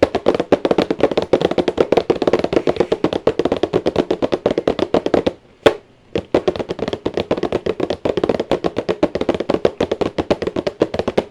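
Empty cardboard cereal box being tapped in a fast, uneven run of knocks, about eight a second, with a brief break about halfway. It is meant as an imitation of a lumpy camshaft idle.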